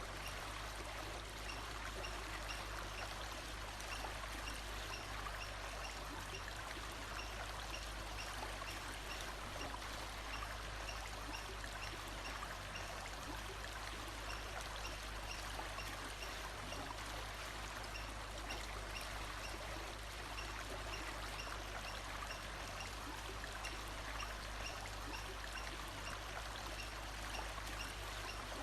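Steady running water of a stream or brook, with a faint high note repeated about once a second.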